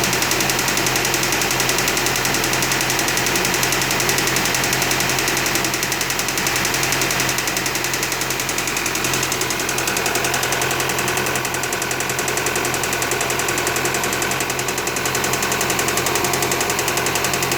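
2015 Audi A4's 2.0 TFSI (CPM) engine running steadily at idle with a fast, even knocking or ticking.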